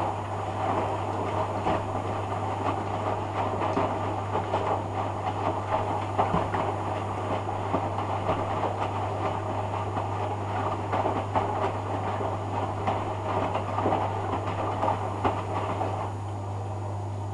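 Hoover Dynamic DYN11146PGBCH washing machine rinsing: the drum turns and tumbles wet laundry with a continuous clatter over a steady low hum. The tumbling stops about a second before the end, leaving the hum.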